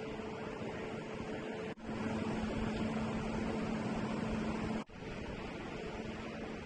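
Steady running noise with a constant hum, cut off abruptly twice, about two and five seconds in, and resuming at a different pitch and loudness after each cut.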